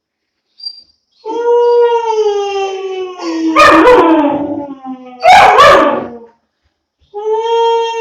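Two-month-old German Shepherd puppy howling: long drawn-out howls that slide slowly down in pitch, broken by two louder, rougher yelping cries in the middle, then a short pause and a fresh howl near the end.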